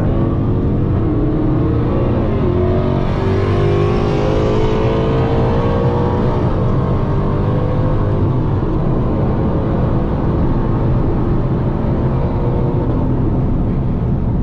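Dodge Hellcat's supercharged 6.2-litre V8 pulling hard under full throttle, revs climbing over the first few seconds and then holding high in one loud, unbroken run.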